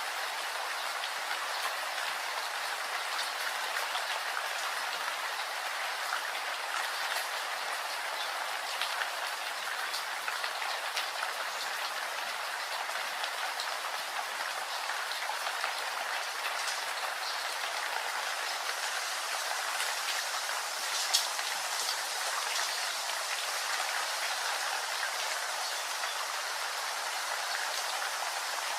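Steady rain falling, a dense even hiss with scattered individual drops tapping, one a little louder about two-thirds of the way through.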